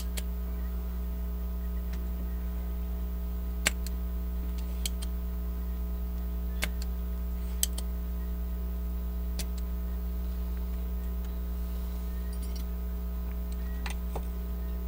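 Steady low electrical hum with a handful of sharp single clicks spread through it, the loudest about four and eight seconds in: a spring-loaded desoldering pump being cocked and fired to suck solder off a circuit board's joints.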